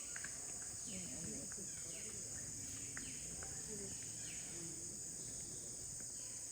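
Steady, high-pitched drone of forest insects, with a string of short falling calls repeating about once a second behind it.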